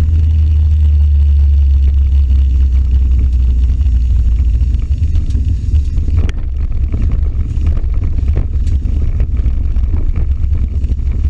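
Toyota Starlet's 4E-FTE turbocharged 1.3-litre four-cylinder engine running, a loud low drone that turns choppier and less even about five seconds in.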